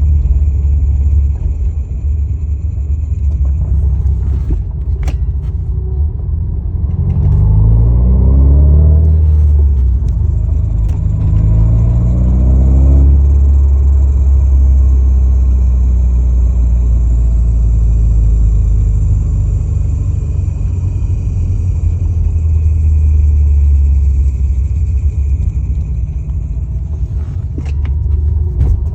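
Subaru WRX STI on the move: a loud, steady low rumble with a grinding noise on deceleration, whose cause the owner is asking about. A pitched tone slides in pitch twice, about a quarter of the way in and again near the middle.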